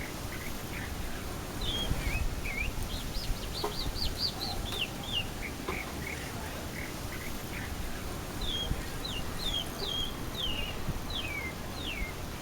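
Chalk-browed mockingbird singing a quiet throat song: a varied run of short whistled notes and downward-sliding phrases, coming in two bursts, one about two seconds in and another after about eight seconds.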